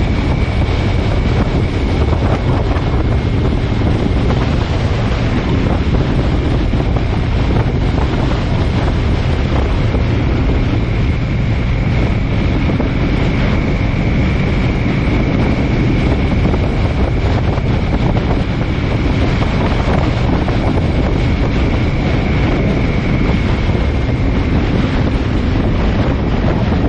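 Loud, steady wind noise buffeting the microphone, with a faint high whine held through most of it that fades out near the end.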